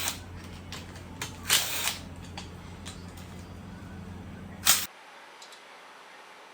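Sharp metal clicks and short scraping noises from hand tools and engine parts being handled, over a steady low hum; the hum stops abruptly about five seconds in.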